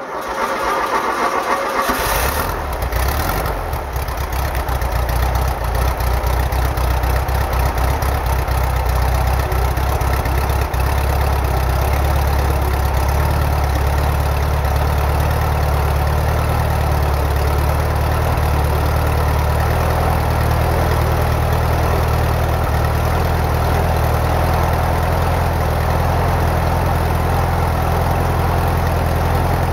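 A freshly overhauled air-cooled Volkswagen engine being cranked by the starter for about two seconds, then catching and settling into a steady idle on its first run after the rebuild.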